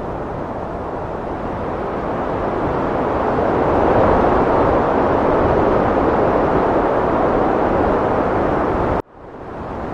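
Heavy wind blowing steadily, swelling into a stronger gust about four seconds in. It cuts out abruptly about nine seconds in and fades straight back up.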